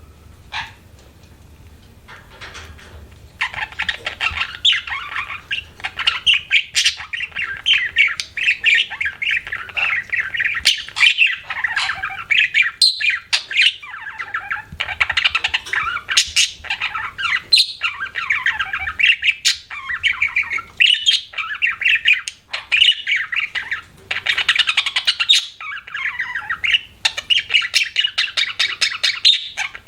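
Budgerigar chattering and warbling: a few separate chirps, then from about three seconds in a fast, continuous run of chirps and scratchy squawk-like notes.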